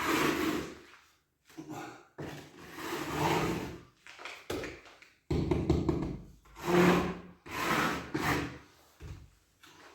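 Repeated rubbing strokes across the fireplace surface as it is dusted and wetted before the next layer is applied, about seven strokes with short pauses between.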